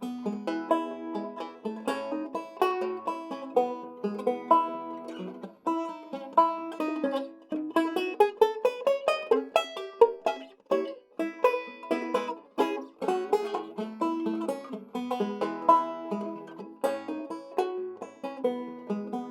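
A circa 1923 Weymann Keystone State guitar banjo, a six-string banjo, playing a ragtime tune in a steady stream of bright plucked notes, with a quick rising run of notes about eight seconds in.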